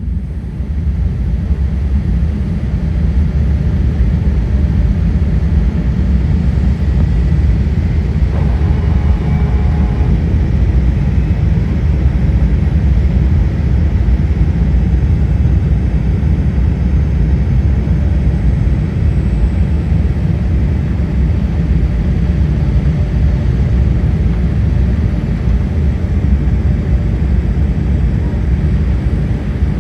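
Jet airliner's steady low rumble of engines and airflow during its landing approach, with a brief pitched tone about eight seconds in.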